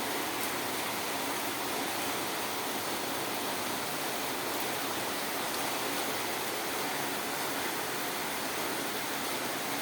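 Steady heavy rain falling, a constant even hiss.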